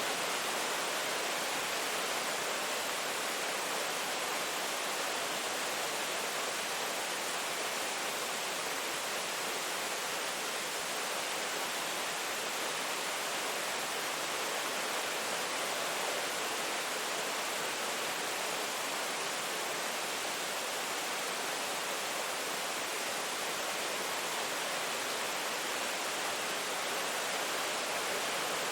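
Rain falling steadily, an even hiss with no separate drops or thunder standing out.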